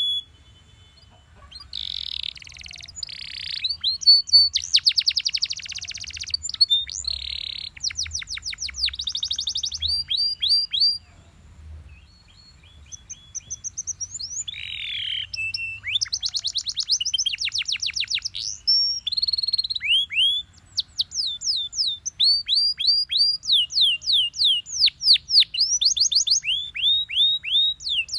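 Belgian canary singing: fast trills of repeated downward-sweeping notes, one phrase after another, with short pauses about a second in and again about twelve seconds in.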